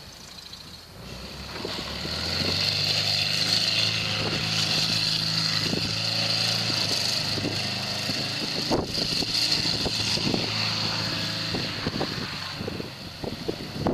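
1960 Volkswagen Beetle's air-cooled flat-four engine revving hard as the car drifts in circles on snow. The revs build over the first couple of seconds, hold steady, and ease off near the end.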